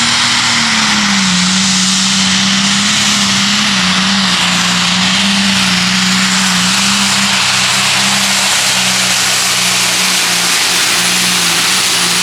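A pulling tractor's engine held at full throttle through a pull, loud and steady, with its pitch sagging a little in the first couple of seconds and then holding level under the load of the sled.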